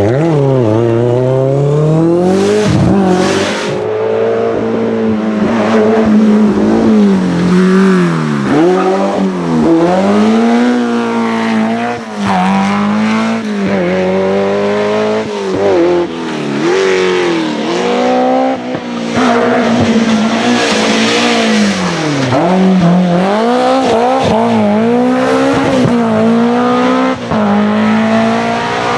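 Rally car engine revving hard, its pitch climbing and dropping again and again through gear changes and lifts. Bursts of tyre squeal or skidding come about three seconds in and again around twenty seconds in.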